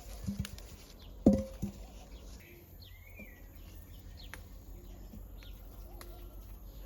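A few short knocks or clinks, the loudest about a second in with a brief ring, over a bed of birds chirping outdoors.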